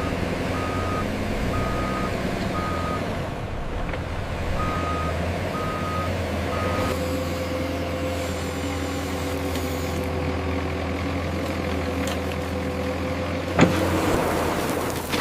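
Vehicle reversing alarm beeping at one pitch, about once a second in two short runs, over a steady low diesel engine drone. A single sharp knock near the end.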